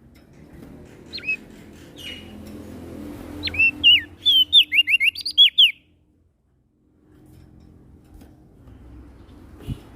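Small songbird singing sharp, sweeping whistled chirps: a few single notes, then a quick run of them about three and a half to six seconds in, over a low steady hum. The sound drops out completely for about a second, then the hum returns with a single dull thump near the end.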